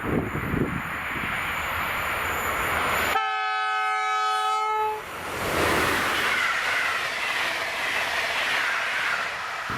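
An electric locomotive, an EU160 Griffin hauling an Intercity passenger train, passing at speed. A steady rush of rolling noise is broken by a horn blast of just under two seconds, about three seconds in. After the horn the rolling noise of the passing train grows louder.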